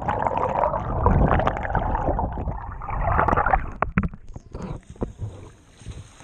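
Water splashing and gurgling around a kayak, loud for the first few seconds and then dying down, with a few sharp knocks on the hull near the end.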